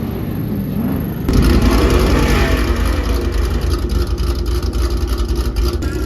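A car engine jumps to a loud rev about a second in, its pitch falling away afterwards, then keeps running with a deep rumble.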